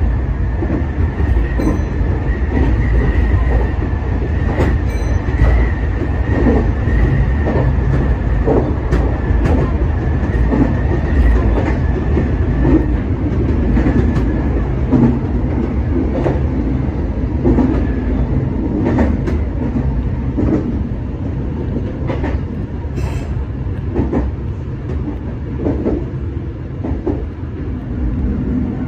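Meitetsu 6800-series electric commuter train running, heard from the cab: a steady rumble with the clacks of wheels passing over rail joints, and a steady high whine that fades out about halfway through.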